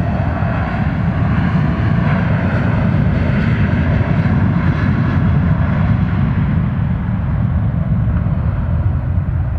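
Boeing 737's jet engines running loud: a steady rushing noise with a faint whine in it, swelling a little midway and easing near the end.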